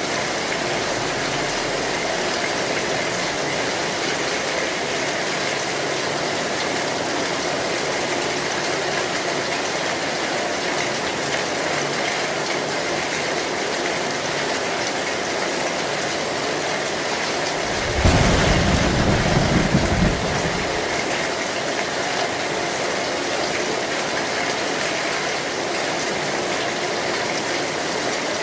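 Heavy rain pouring steadily on an old metal zinc roof. About two-thirds of the way through, a short, sudden low rumble of thunder lasts a couple of seconds.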